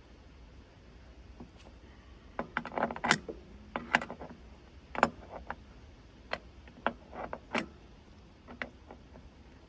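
Metal tools and hardware clinking and knocking as they are handled: a dozen or so sharp, irregular clinks, clustered between about two and a half and nine seconds in.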